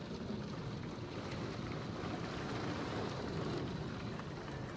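Steady rushing noise of heavy thunderstorm rain and wind, with no single loud event standing out.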